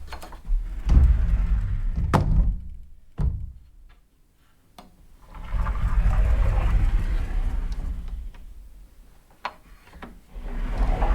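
A door being worked: several sharp clicks and thuds, the strongest about two seconds in, with stretches of low rumbling between them and a short quiet gap before the middle.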